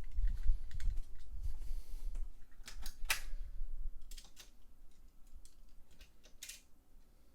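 Die-cast toy cars and plastic racetrack gear being handled. There is low bumping for the first couple of seconds, then a handful of sharp clicks and knocks.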